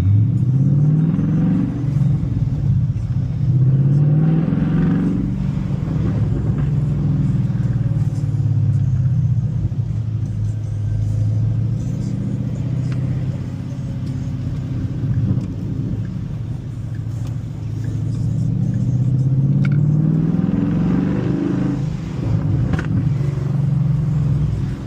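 Ford Mustang's Coyote 5.0 V8 engine and exhaust under way, the revs rising several times as the car pulls through the gears and settling between pulls.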